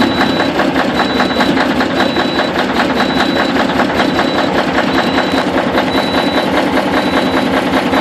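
Caterpillar 3406E inline-six diesel idling steadily soon after a cold start at 0 °F with no block heater. A faint high-pitched beep repeats about once a second over it.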